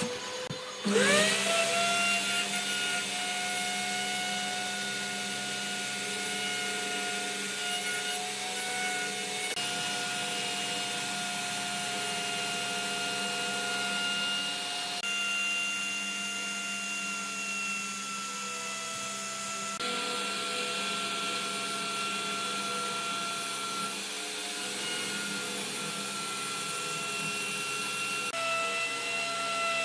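Electric power tool motor spinning up about a second in, then running steadily with a whine. Its pitch dips and shifts slightly now and then as the tool is worked.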